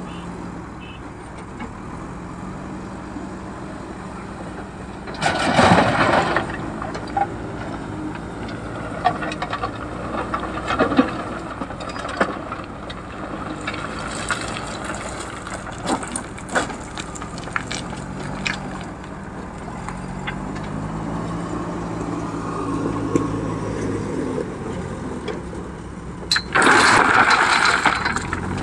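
JCB 3DX Super backhoe loader's diesel engine running under work while loading stone into a truck. There are scattered knocks of stone and two loud, noisy rushes about a second long, one about five seconds in and one near the end, as loads of stone are tipped into the truck.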